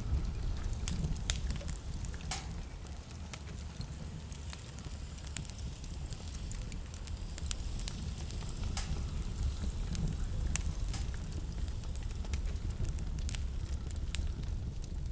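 Wood fire burning in a fireplace: a steady low rumble of the flames with irregular sharp crackles and pops of burning wood.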